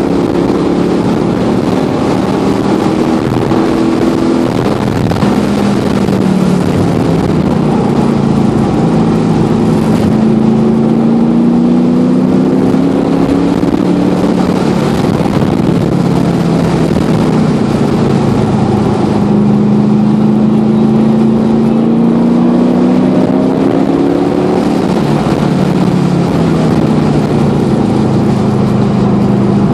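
LS1 V8 engine of a V8-swapped 1993 Mazda RX-7 on a track lap, heard from inside the cabin under hard acceleration. Its pitch climbs in two long pulls, one about a third of the way in and one past the middle, and drops back between them.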